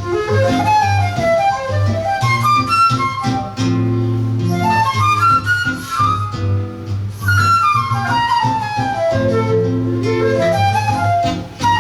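Flute and seven-string guitar duo playing live: the flute plays quick runs that sweep up and down over the guitar's low bass notes and chords.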